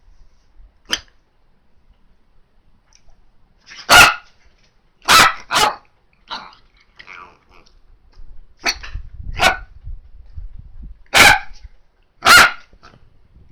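Miniature dachshund barking: about nine short, sharp barks, singly or in quick pairs with pauses between, the loudest about four seconds in and near the end.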